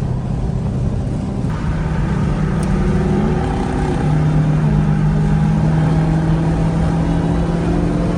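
Dodge Hellcat's supercharged V8 running under way, a steady drone whose pitch holds and then shifts up or down several times as the revs change.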